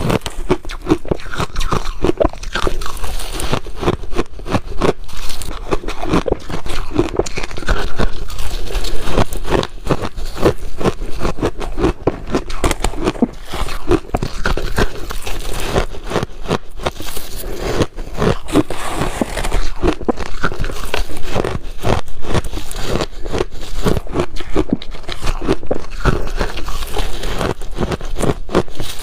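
Ice being bitten and chewed: a continuous run of loud, crisp crunches, several a second.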